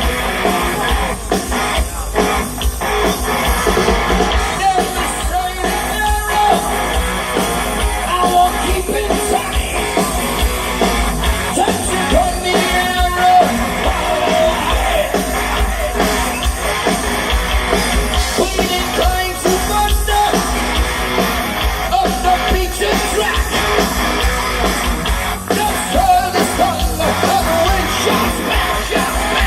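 Heavy metal band playing live at full volume: distorted electric guitars over bass and drums, with a wavering lead line or sung wails on top.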